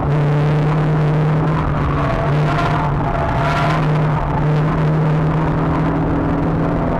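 Renault Clio 182 Trophy's 2.0-litre four-cylinder engine heard from inside the cabin, running hard at fairly steady high revs on track. A brief swell of rushing hiss comes over it around the middle.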